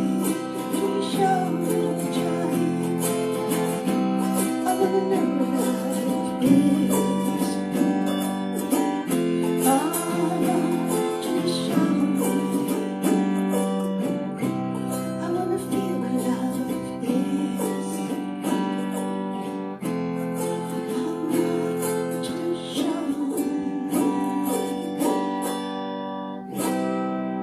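Acoustic guitar music, many notes plucked in a steady flow.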